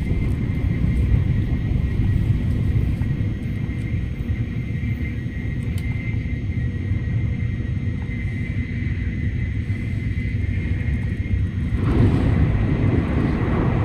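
Steady low rumble of a Tokaido Shinkansen train running at speed, heard inside the passenger cabin, with a faint steady whine. About 12 s in the noise swells louder and harsher as the train passes onto a steel bridge.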